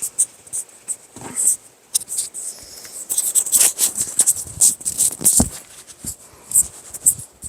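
Jigsaw puzzle box being handled, with irregular crinkling and crackling of packaging and a dull knock about five seconds in.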